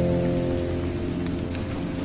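Steady rain with a low, held musical drone of several tones underneath; most of the drone fades out about half a second in, leaving a single held note over the rain.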